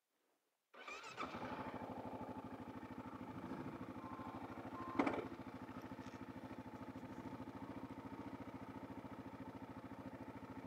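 Kawasaki KLR650's single-cylinder four-stroke engine idling steadily with an even, rapid pulse, cutting in from dead silence about a second in. A short sharp knock about halfway through.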